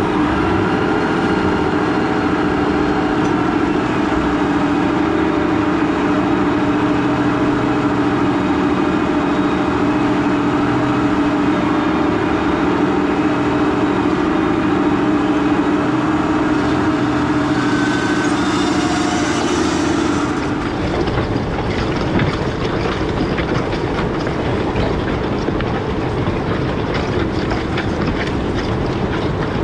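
Large farm tractor working in the field, its engine running steadily under load. About two-thirds of the way through the sound changes suddenly to a dense, even clatter.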